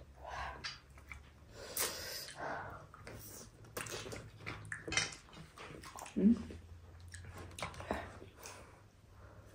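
Close-up eating sounds: chewing with irregular wet mouth smacks and clicks, and one short louder sound about six seconds in, over a faint steady low hum.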